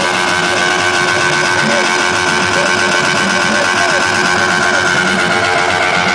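Motorcycle engine held at steady high revs during a burnout, running continuously and cutting off shortly after the end.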